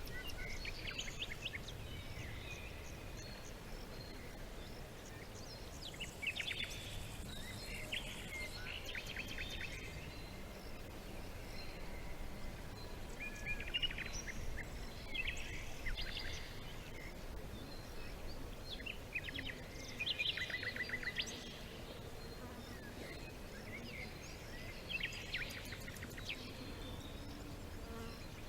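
Small birds chirping in short bursts of quick repeated high notes every few seconds, over a steady low rumble of background noise.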